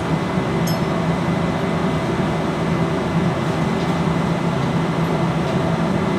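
Steady machinery drone with a low hum, running evenly without change, with a faint click under a second in.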